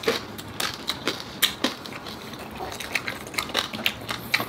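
Crunching of crispy lechon kawali pork skin being bitten and chewed up close: a string of sharp, irregular crackles.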